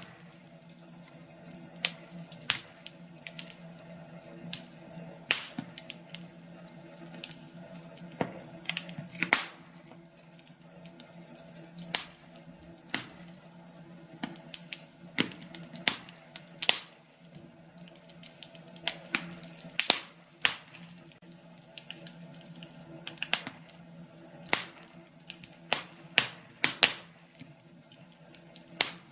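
Wood fire burning in a fireplace: irregular sharp crackles and pops of the firewood, some louder than others, over a low steady background.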